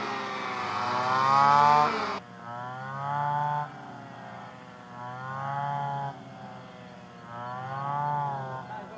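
Small engine of a brush cutter (grass cutter) used to reap rice, revving up and dropping back in repeated surges about every two seconds as it cuts.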